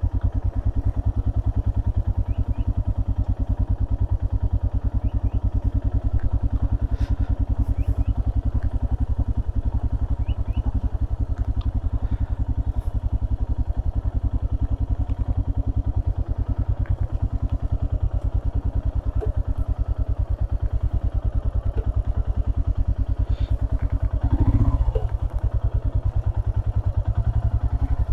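Royal Enfield Himalayan's 411 cc single-cylinder engine running steadily with an even thumping beat, briefly louder about 24 seconds in.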